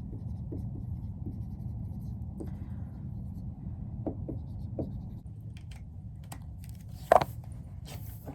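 Pen writing on paper, light scratching strokes over a steady low hum, with one sharp knock about seven seconds in.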